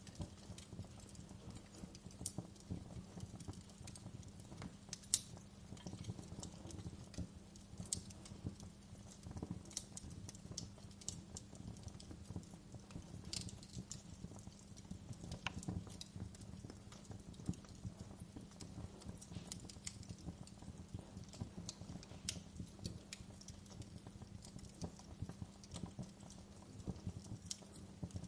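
Wood fire burning in a fireplace: irregular crackling with frequent sharp pops and snaps over a steady low rumble, one louder pop about five seconds in.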